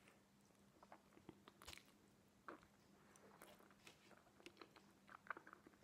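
Faint close-up mouth sounds of someone biting into and chewing a slice of stuffed pizza: scattered soft wet clicks and ticks.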